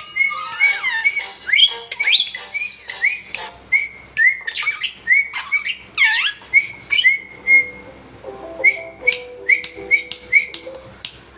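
Pet parrot whistling a string of short rising notes, about two to three a second, broken by louder swooping squawks around the middle.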